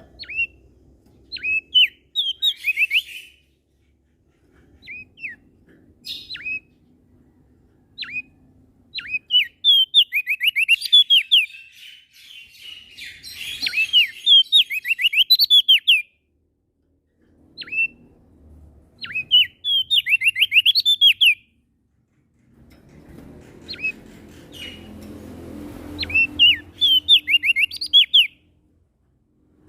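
Prenjak daun songbird singing: short phrases of sharp chirps and quick runs of falling, whistled notes, given in bursts with pauses between them. A faint low hum sits underneath, louder in the second half.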